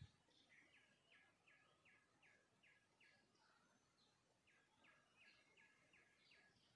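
Near silence, with a faint high bird chirp repeated about three times a second, pausing for a couple of seconds midway. A small click right at the start.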